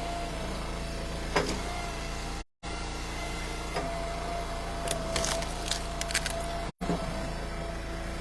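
Eastonmade Ultra wood splitter's engine running steadily while splitting ash rounds, with a whine that comes and goes as the splitter works. A knock sounds about a second and a half in, and a few sharp knocks and clicks come from the wood later on.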